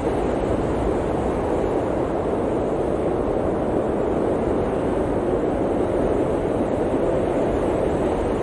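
Blizzard wind blowing steadily: an even, deep-toned rush with no gusts or breaks.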